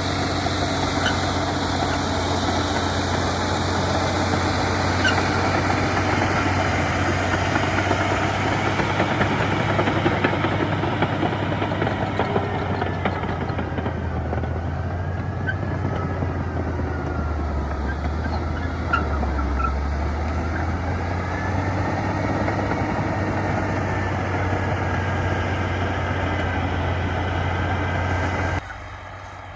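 Heavy diesel earthmoving machinery running steadily under load, with a faint whine that rises and falls in pitch around the middle. The sound drops off sharply near the end.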